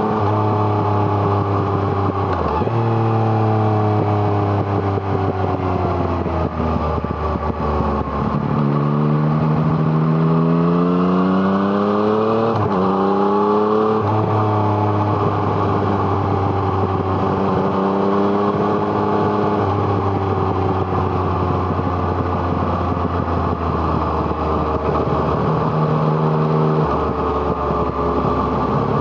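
Yamaha MT-09's three-cylinder engine through an Arrow Thunder exhaust, ridden through a mountain pass. The engine note falls away off the throttle, then climbs under acceleration. About halfway through the pitch drops suddenly at a gear change, and the engine then runs fairly evenly with small rises and falls.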